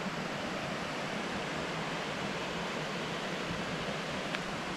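Steady rush of water from a mountain stream's rapids and cascades tumbling over boulders, with one faint click a little after four seconds.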